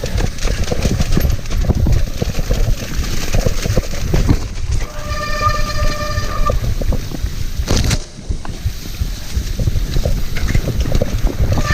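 Mountain bike rattling and rumbling over a rough, muddy trail, with many small knocks and wind on the microphone. About five seconds in, a steady, high-pitched disc brake squeal lasts about a second and a half, typical of wet, mud-covered brakes.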